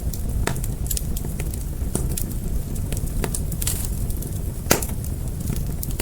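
Fire crackling: a steady low rumble of flames with irregular sharp pops. The loudest pop comes a little under five seconds in.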